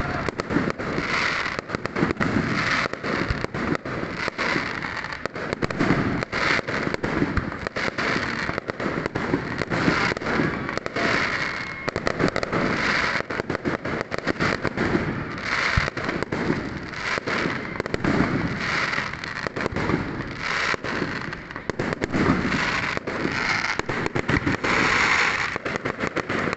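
Fireworks going off without pause: dense, overlapping bangs and crackles, many bursts a second.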